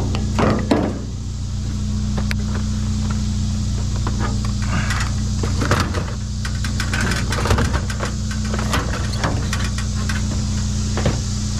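Truck engine idling steadily, with scattered knocks, clicks and rustles of junk being handled.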